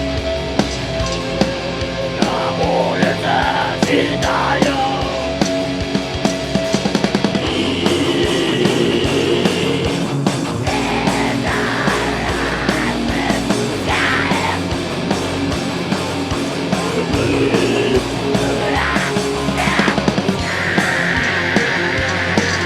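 Live heavy metal band playing loudly: distorted electric guitars and bass over a drum kit with frequent hits.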